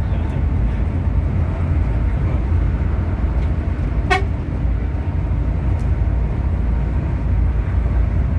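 Bus under way: a steady low rumble of engine and road noise, with one brief sharp click about four seconds in.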